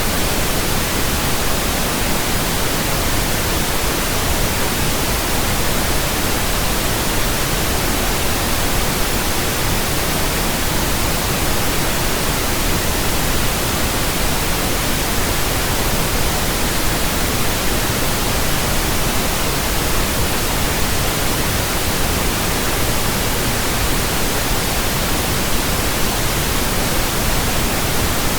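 Pink noise from a signal generator: a steady, even hiss spread across the whole range from deep bass to treble, with no change throughout. It serves as a burn-in test signal for new speakers, headphones and earphones.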